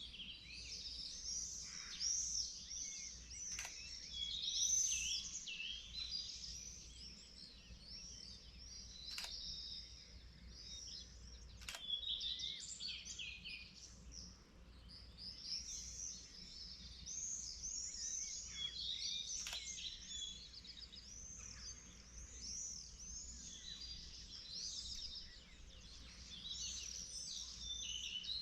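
Dawn chorus of many songbirds singing at once, a continuous overlap of high chirps, warbles and trills, over a faint steady low rumble of distant background noise. A few faint sharp clicks sound now and then.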